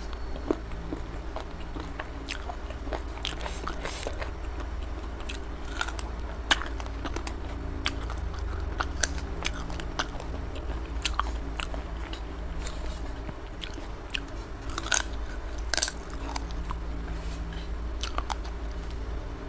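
Close-miked eating: a person chewing a mouthful of rice and gravy chicken leg eaten by hand, with many short sharp mouth clicks, the sharpest about three-quarters of the way through. A low steady hum runs underneath.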